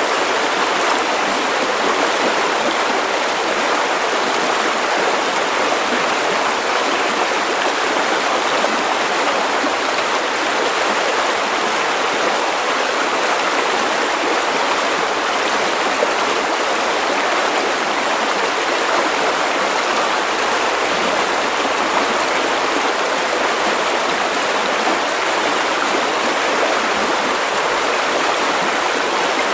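River water running over stones, a steady, even rushing and babbling.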